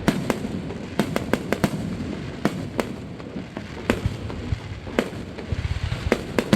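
Fireworks going off: a run of sharp cracks and pops at irregular intervals over a low rumble.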